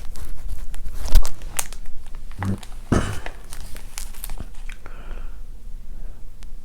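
Irregular crinkling and crackling handling noise with sharp clicks, like something crinkly being handled close to the microphone.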